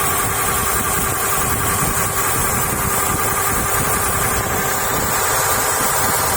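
Engine driving a NICO 3:1 marine reduction gearbox, running steadily at constant speed, with a steady whine over its rumble.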